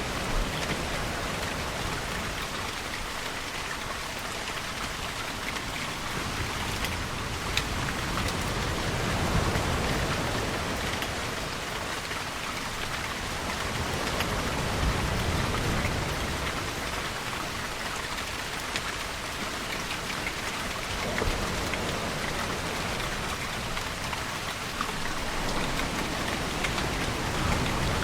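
Steady rain falling, with scattered close drops ticking through it. Beneath the rain a low rumble swells and fades a few times.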